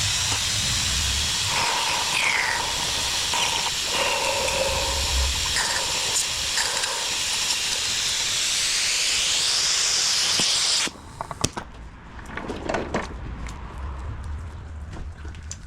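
A loud, steady hiss that cuts off abruptly about eleven seconds in. Scattered quieter clicks and knocks follow.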